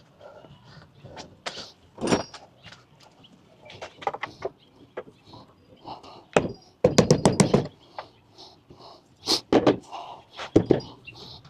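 Scattered knocks and thumps as drawer parts are pounded together during assembly, with a quick run of about eight rapid blows around seven seconds in and single sharp knocks near two, nine and ten seconds.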